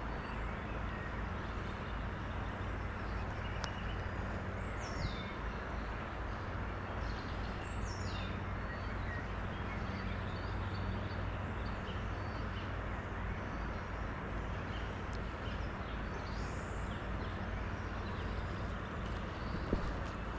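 Steady rushing outdoor background noise with a low hum, over which three short, high bird calls sweep downward, about five and eight seconds in and again about sixteen seconds in.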